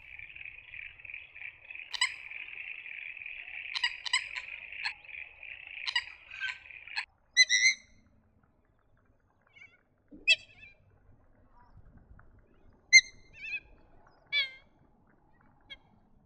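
A wetland waterbird of the rail family calling. For about the first seven seconds, short sharp notes sound over a steady high hiss. After a brief pause come several separate harsh calls.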